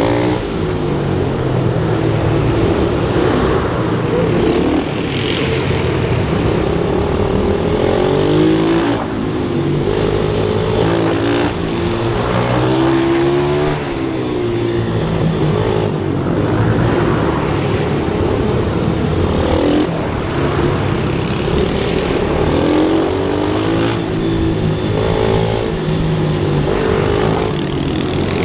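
Several pit bike engines revving on track, their pitch rising and falling over and over as the bikes accelerate, shift and brake, with more than one bike heard at once.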